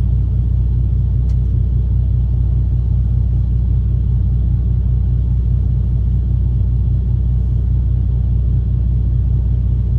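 Steady low rumble of the truck's idling engine, heard inside the cab.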